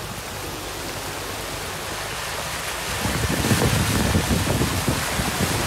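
Heavy rain falling with a steady hiss. About three seconds in, a low crackling rumble joins in and the whole sound grows louder.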